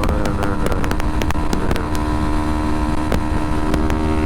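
Kawasaki Ninja 250R parallel-twin engine running at a steady cruising speed, heard from the rider's helmet with wind rushing past. Frequent sharp ticks sound over it.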